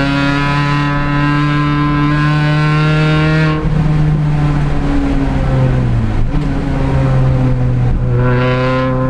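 Onboard sound of an R53 Mini Challenge race car's supercharged 1.6-litre four-cylinder engine under way. It holds a steady pitch for the first few seconds, then shifts, dips briefly in pitch about six seconds in and climbs again.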